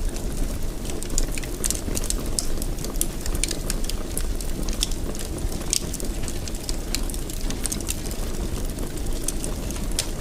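Wood fire crackling, with frequent sharp irregular pops over a steady low rumble of the burning fire.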